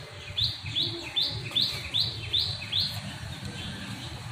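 A bird calling: a quick run of seven sharp, high chirps, about two and a half a second, over two or three seconds.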